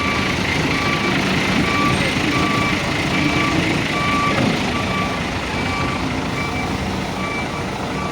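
Container truck's reversing alarm beeping steadily, a little over one beep a second, over the truck's running engine as it backs up.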